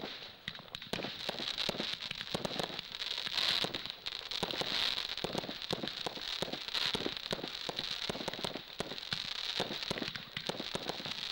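Fireworks going off with a dense, irregular run of rapid crackling pops over a steady hiss.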